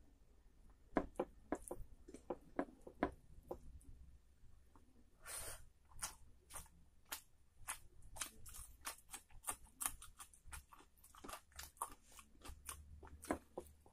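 Close-miked chewing of a mouthful of rice and curry: a string of short wet smacks and clicks, about two to three a second, with a brief noisy burst about five seconds in.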